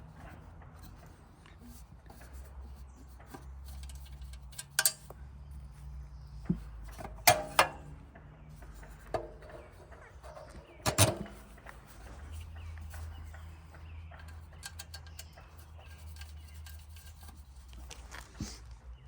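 A low steady hum with a few sharp metallic knocks and clanks, some ringing briefly; the hum drops in pitch about two-thirds of the way through.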